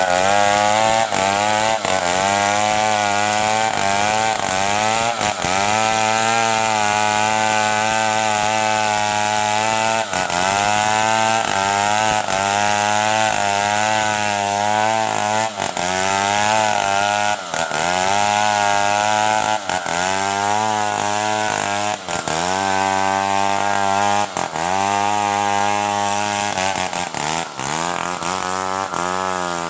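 Stihl 070 two-stroke chainsaw running at high revs while cutting wood. Its engine pitch sags and recovers every couple of seconds as the chain bites into the cut and eases off.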